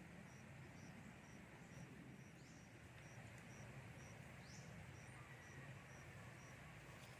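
Faint outdoor ambience: a high, even insect chirp repeating about twice a second over a low steady rumble, with two short rising calls in the middle.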